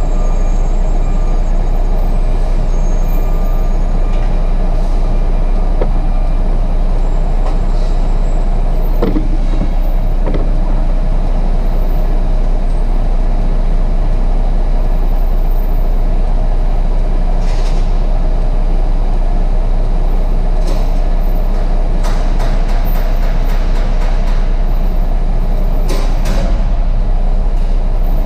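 Tractor-trailer's diesel engine running steadily with a deep, even rumble, with a few clicks and short squeaks here and there.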